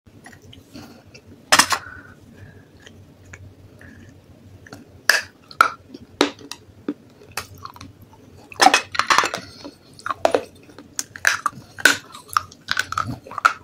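Someone crunching and chewing pieces of baked clay pot: sharp crisp bites come every second or so, with a dense run of crunching about nine seconds in.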